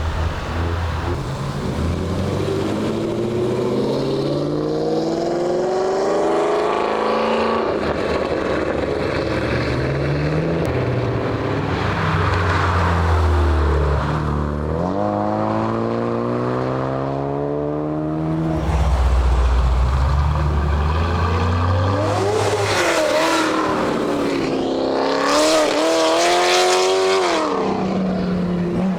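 Car engines revving and accelerating away one after another, the pitch climbing and dropping back with each gear change, over a low engine rumble.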